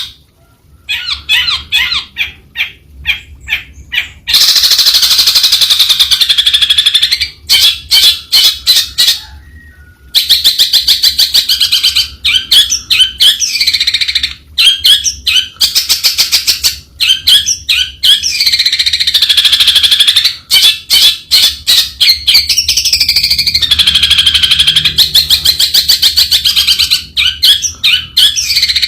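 Long-tailed shrike singing: rapid trains of harsh, clicking chatter alternating with longer wavering, swooping whistled phrases, with a few brief pauses.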